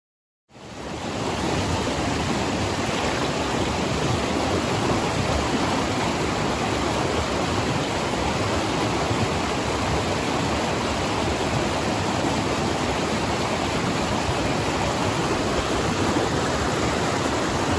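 Fast river current rushing through rocky pocket water: a steady rush that fades in within the first second.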